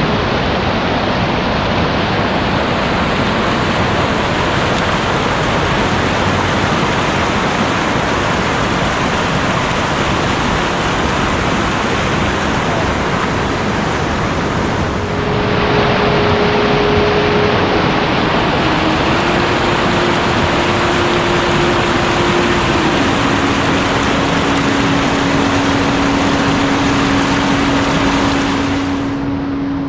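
Heavy rain falling in a steady downpour, with a brief dip about halfway through. A faint steady hum steps down in pitch in the second half.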